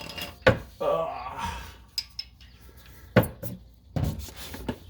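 Metal hand tools clinking and knocking against exhaust hardware: a handful of sharp separate clinks a second or so apart, with faint scraping between them.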